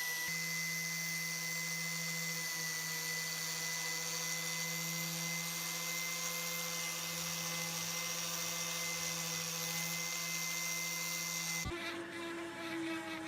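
A small electric power tool running steadily with a constant whine and hiss; near the end the sound changes abruptly to a different, lower steady motor hum.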